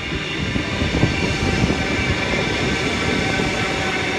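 Queensland Rail electric multiple-unit train running past along the platform: wheels rumbling and clattering on the rails under a steady whine. It swells over the first second, then holds steady.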